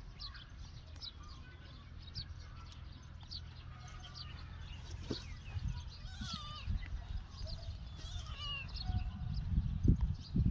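Small birds chirping over and over, with a few wavering calls among them, over a steady low rumble. A few dull thumps come near the end.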